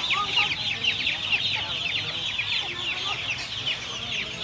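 A crowd of young chicks peeping continuously: many short, high, falling cheeps overlapping without a pause.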